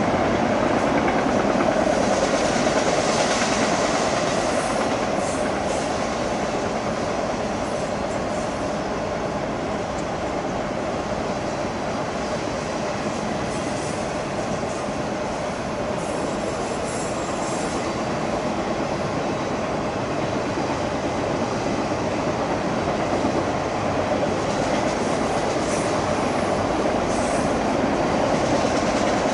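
Freight train of enclosed autorack cars rolling past at a steady pace: a continuous rumble and rattle of wheels on the rails.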